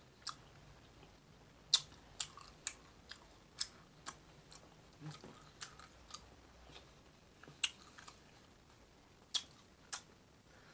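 Close-miked chewing of a mouthful of chili, with sharp wet mouth clicks and lip smacks at irregular intervals, about fifteen in all.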